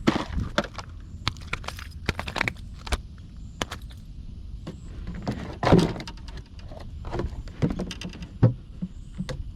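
Fishing gear being handled: an irregular series of sharp clicks, knocks and rattles, with louder knocks about halfway through and again near the end.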